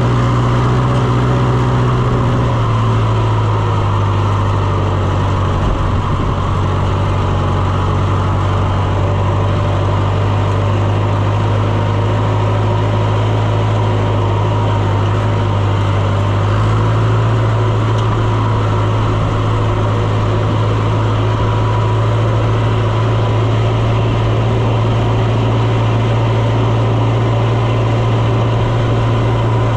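Engine of a farm vehicle running steadily at a low, even drone, its note shifting slightly a couple of times.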